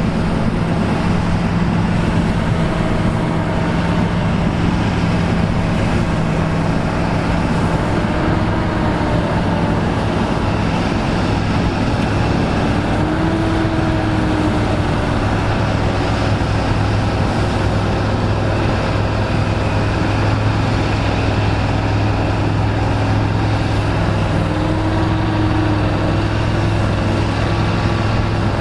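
Diesel engines of vintage farm machinery running steadily, with the engine note dropping a little about a third of the way in.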